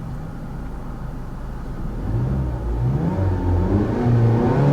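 2015 Mazda CX-5's petrol engine idling, then from about two seconds in revved in a series of blips, its pitch rising and falling and climbing higher near the end.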